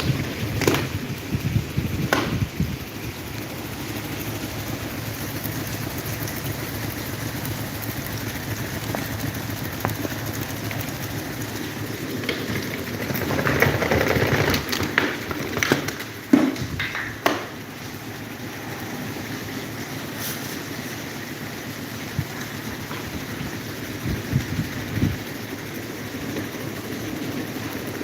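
Electric table fan running: a steady rush of air, with a louder stretch and a few sharp knocks about halfway through.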